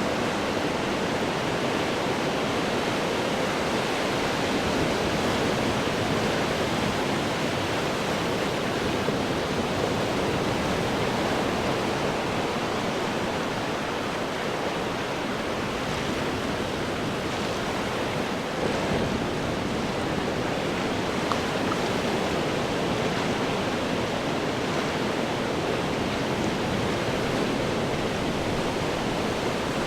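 Ocean surf breaking on rocks: a continuous, even rush of churning water with no single crash standing out.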